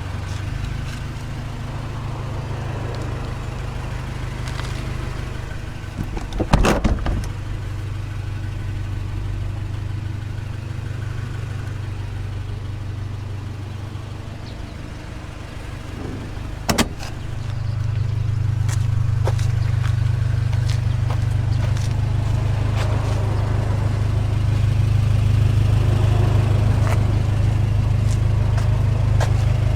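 Honda Civic EG6 driving: a steady low engine and road drone that gets louder a little past halfway and holds there. There is a brief loud clatter about six seconds in and a single sharp knock about seventeen seconds in.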